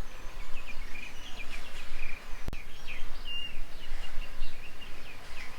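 Birds chirping in many short, quick calls over a steady low background noise, with a single sharp click about two and a half seconds in.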